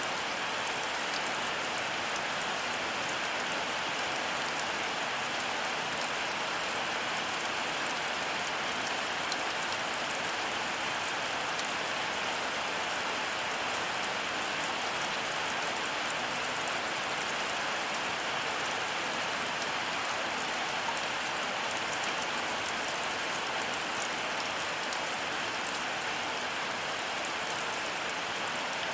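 Heavy rain falling steadily: an even hiss with a fine patter of drops, no thunder.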